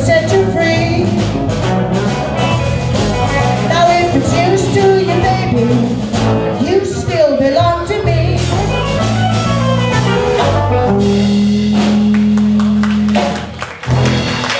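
Live band playing the instrumental close of a rock and roll number: bending lead guitar lines over bass and drums, then a long held final chord from about eleven seconds in, cut off with a last hit near the end.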